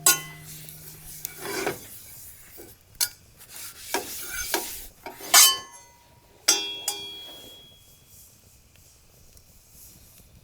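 Metal cutlery scraping and clinking against cookware in a series of separate strokes, a few sharp clinks ringing briefly; the loudest is a little past halfway.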